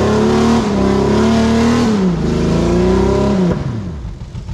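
Suzuki Sierra's small four-cylinder engine held at high revs as it strains up a steep muddy climb. The revs sag and recover about two seconds in, then drop away sharply near the end as the climb stalls: the little Suzuki lacks the clutch and gearing for the steep section.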